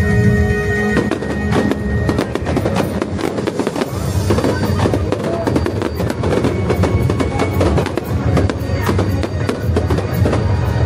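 Fireworks crackling and popping in quick, dense succession, over loud music with a heavy bass.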